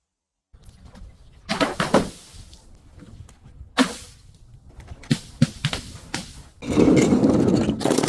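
Objects being crushed and broken: a few separate sharp cracks and knocks, then about two seconds of loud continuous crunching near the end.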